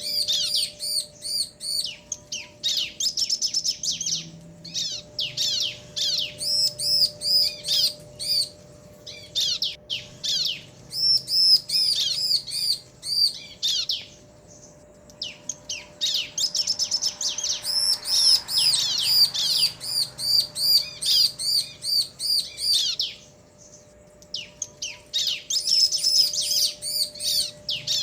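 Bar-winged prinias (ciblek), a male and a female, calling back and forth in quick runs of high, arched chirps. The runs come in several bouts separated by brief pauses.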